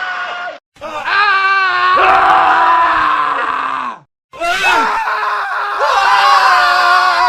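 Men screaming, one scream after another, edited back to back. The tail of one scream cuts off about half a second in, a long wavering scream follows, and after a brief silent gap about four seconds in, another long scream begins.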